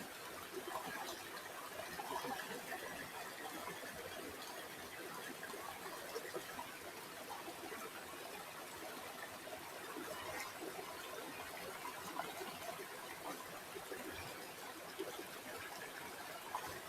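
River water flowing steadily, a trickling babble dotted with small splashes and drips.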